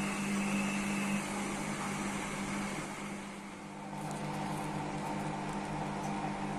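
IFB washing machine's motor running, turning the drum with a single towel on a spin-only program: a steady machine hum that eases about three and a half seconds in, then picks up again with a new, higher hum.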